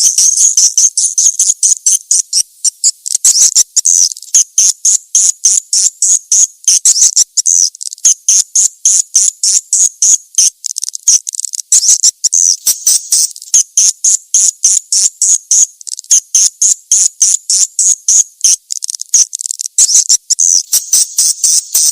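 Recorded swiftlet calls, a swiftlet lure sound: a steady stream of rapid high-pitched chirps, several a second, running on without pause.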